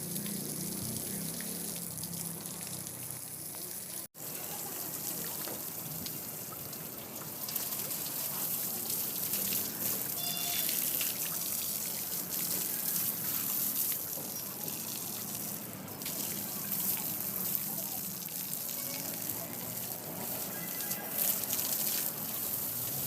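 Steady hiss of running or spraying water, broken by a sudden momentary dropout about four seconds in.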